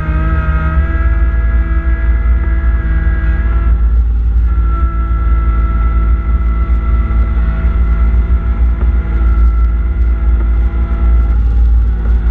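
Kubota B2650 compact tractor's diesel engine running steadily with its front-mounted snowblower at work: a heavy low rumble with a steady whine over it that shifts slightly in pitch about four seconds in.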